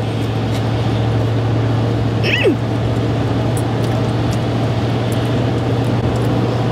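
Steady low hum of a car's cabin with the engine running, and a short sliding squeak about two and a half seconds in.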